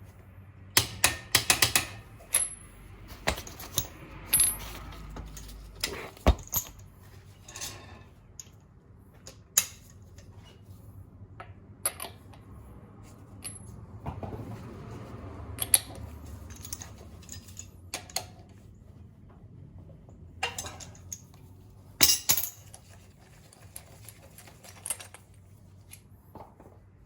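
Steel lug nuts clinking and clicking at irregular intervals as they are handled, set down and fitted, while a wheel's acorn lug nuts are swapped for extended-thread spline lug nuts. The clinks are busiest about a second in and again near the end.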